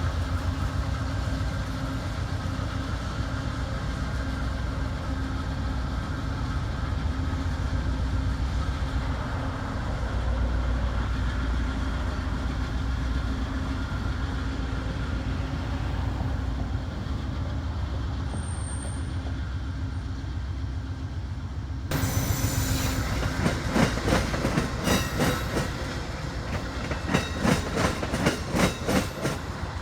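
Amtrak passenger train running slowly with a steady rumble and a droning engine hum. Near the end, the wheels start clacking in quick rhythmic runs as they cross rail joints and switch points while the train changes tracks.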